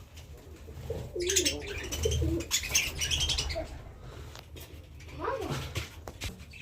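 Domestic pigeons cooing in a loft, with higher bird chirps mixed in, over a steady low hum.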